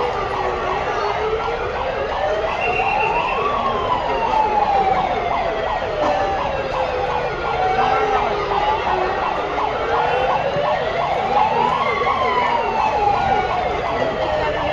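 Emergency vehicle siren in a slow wail. It rises over about three seconds and falls over about five, peaking twice, over a dense background of noise.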